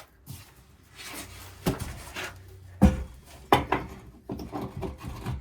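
Hand work on plumbing: a few sharp knocks, the loudest about three seconds in, with rubbing and scraping between them as a part is worked loose.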